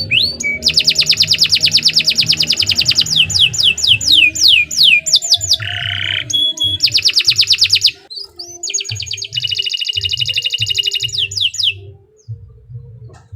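Domestic canary singing long, rapid trills of fast repeated high notes, some as quick falling sweeps, with a short harsher, lower buzzy note about six seconds in. The song breaks off near the end.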